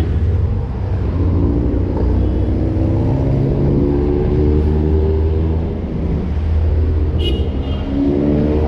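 City street traffic: motor vehicle engines running and passing, with a steady low rumble whose pitch rises and falls. A brief high tone sounds about seven seconds in.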